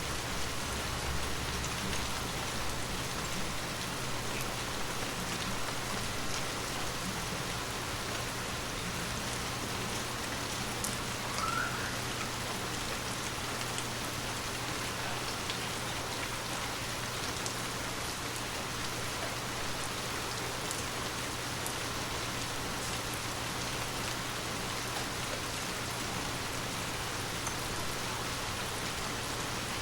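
Water drops pattering steadily on glass, a continuous wash of small, irregular ticks.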